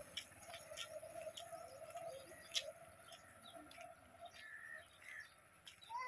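Birds chirping and calling faintly, with many short scattered chirps.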